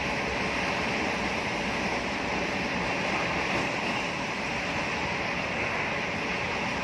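Passenger train running at speed: a steady rushing of wind and wheels on the rails, heard from on board, with a faint steady hum under it.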